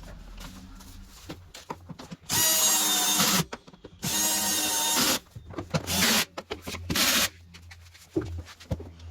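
Power drill/driver run in four short bursts, the first two about a second each and the last two shorter, with a whining motor tone; quieter metal clinks and handling noise fall between the bursts.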